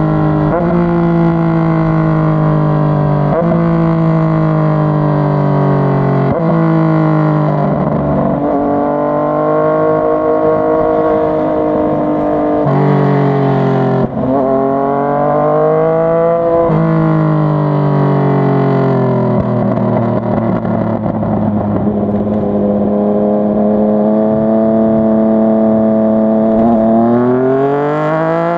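Yamaha MT-09's inline-three engine on the move. Early on the pitch sags and jumps up several times, as with downshifts while slowing. It then accelerates with sudden pitch drops at each upshift, cruises at a steady, slowly rising pitch, and revs up again near the end.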